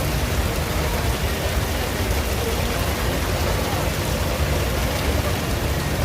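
Heavy downpour of sudden cloudburst rain, a steady even hiss with a low rumble underneath.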